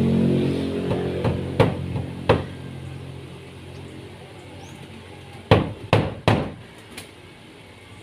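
Hammer blows in carpentry work: two strikes, then a quick run of three over about a second a little past halfway, and a lighter single one after. A passing vehicle engine's hum fades out over the first couple of seconds.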